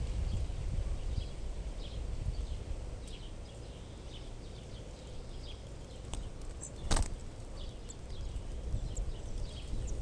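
Faint short bird chirps, repeated irregularly over a low rumble, with one sharp click about seven seconds in.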